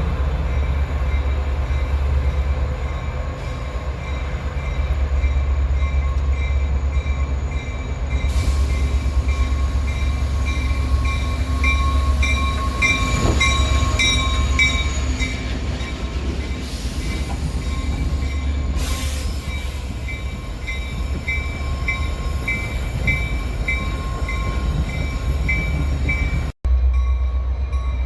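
A train passing on the rails: a steady low rumble with regular clicking about twice a second.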